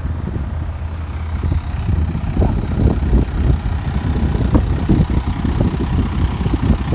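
Heavy engine of a truck or paving machine running steadily with a low rumble, with irregular knocks over it; it gets louder about two and a half seconds in.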